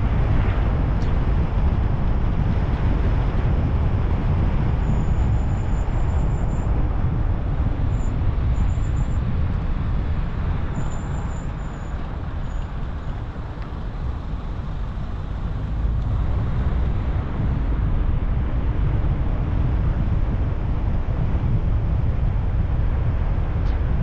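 Car driving along a road: a steady low rumble of engine and tyres that eases off for a few seconds about halfway through, then picks up again.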